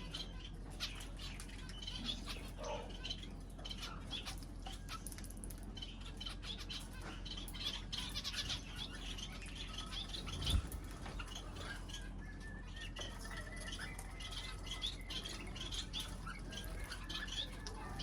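A group of small cage birds chirping and twittering busily, with many short, high, overlapping calls over a faint low hum. One low thump comes about ten seconds in.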